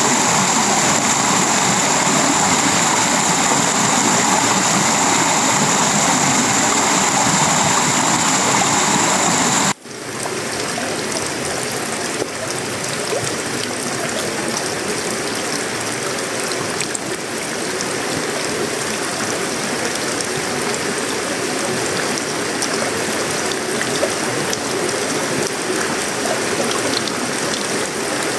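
Tropical rain falling steadily on a sheet-metal roof, wood and leaves, a dense even hiss. About ten seconds in the sound cuts abruptly to a slightly quieter stretch of rain with a smoother texture and without the bright high hiss.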